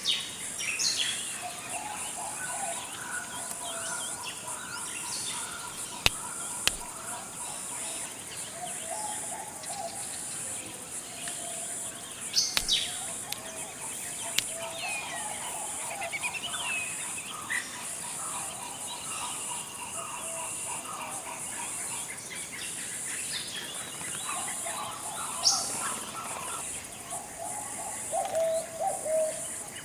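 Forest ambience: various birds calling and chirping on and off over a steady high-pitched hiss, with a few sharp clicks.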